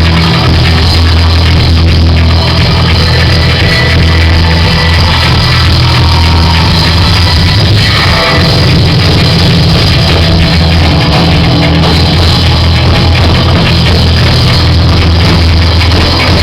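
Loud live rock music with drums, bass and guitar.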